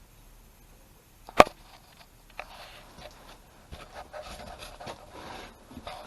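A single sharp knock about a second and a half in, then a lighter click, followed by scattered rubbing and scraping handling noises with small clicks.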